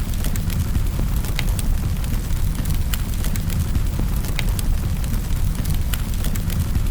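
Wood fire burning in a fireplace: a steady low rumble of flames with frequent sharp crackles and pops scattered through it.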